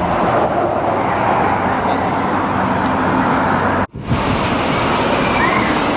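Steady rush of ocean surf. The sound cuts out for a moment just before four seconds in.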